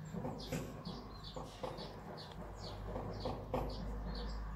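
A small bird chirping over and over, about three short high chirps a second, with a few faint clicks underneath.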